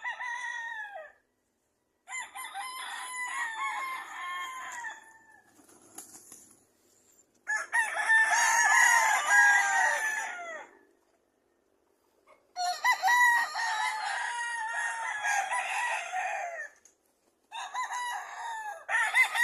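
Roosters crowing: a run of about five long crows with short pauses between them, each crow dropping in pitch at its end.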